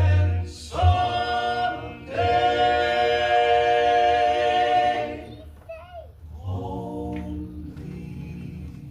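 Gospel vocal quartet singing in close harmony, holding one long chord for about three seconds, then going on more softly.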